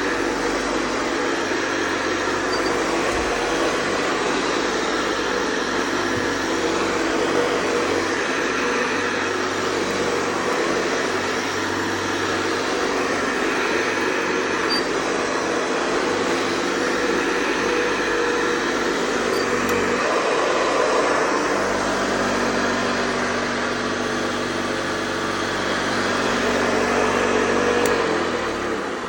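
Hoover Convertible Model 584 upright vacuum cleaner running steadily with a hum. Near the end it is switched off and the motor winds down.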